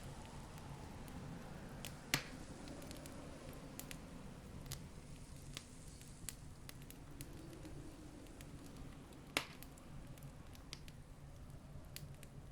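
Campfire crackling, with scattered sharp pops and two louder snaps, one about two seconds in and one about three quarters of the way through, over a low steady rumble.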